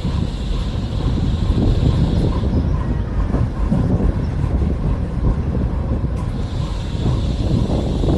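Vario LF2R.E low-floor tram running on rails, heard on board: a steady rumble of wheels and running gear. A high hiss above it drops away around the middle and returns near the end.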